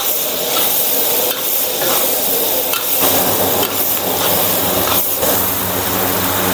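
Chopped chilli sambal paste sizzling in hot oil in a wok, with a metal wok spatula stirring and scraping against the pan now and then. A steady low hum comes in about halfway.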